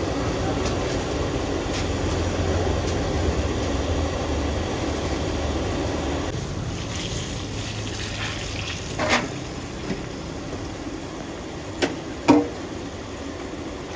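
Snacks frying in hot oil with a steady hiss, over a low traffic rumble that fades after about six seconds. A few sharp metal clanks come in the second half, the loudest near the end.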